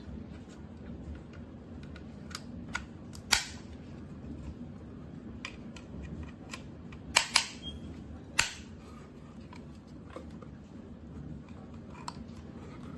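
A series of sharp clicks and taps, like small hard parts being handled, over a steady low hum. The loudest come about three seconds in, as a quick pair a little past the middle, and once more a second later.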